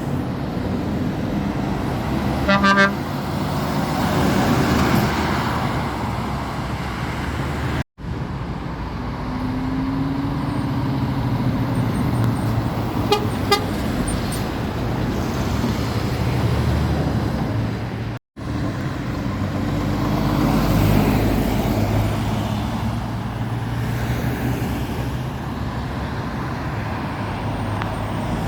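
Road traffic with lorries passing close by. A vehicle horn toots briefly about three seconds in, and a fainter short toot comes near the middle. The sound cuts out for an instant twice where clips are joined.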